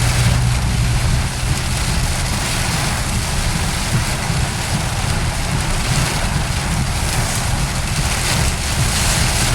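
Steady noise of a vehicle ride in the rain: a low engine and road rumble under an even hiss of rain and wind.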